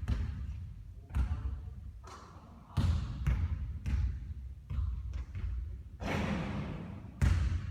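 Basketball bouncing on a court floor: a series of irregularly spaced thuds, with a longer noisy rush about six seconds in.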